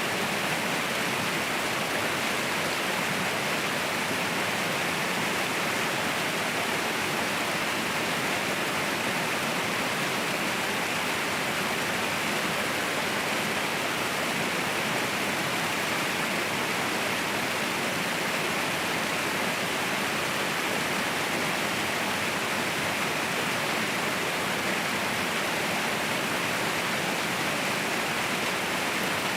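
Waterfall rushing steadily, a constant, even roar of falling water with no breaks.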